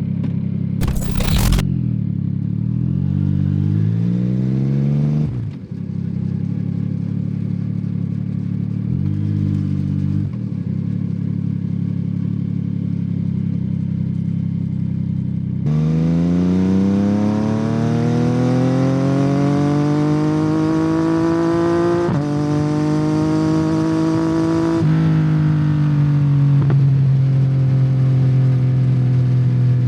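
2021 Yamaha MT-09's 890 cc inline three-cylinder engine through a Yoshimura R77 carbon exhaust, running and revving: the pitch climbs and falls twice early on, then from about halfway it pulls in a long rising climb with two quick drops in pitch, gear changes, before settling steady near the end.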